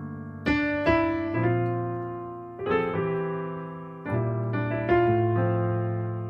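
Piano playing a slow melody over full jazz chords: rich chords struck about every half second in small groups, each left to ring and fade. The voicings are upper-structure chords, here the flat-two minor, laid under the hymn melody.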